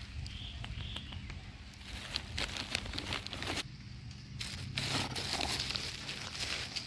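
Monkeys foraging, with crackling, rustling and scattered clicks, and two short high squeaks about half a second and a second in.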